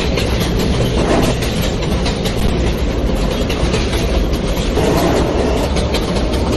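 A New York City subway train running at speed between stations, heard from inside the car: a steady rumble of wheels on the rails, with clicking as the wheels pass over rail joints.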